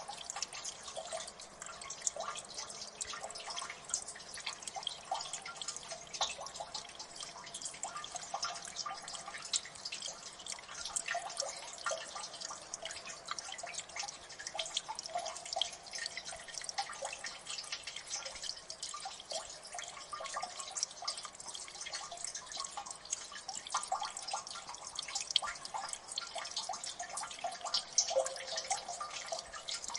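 Water dripping in a gully: many irregular drops falling in quick succession over a soft watery hiss.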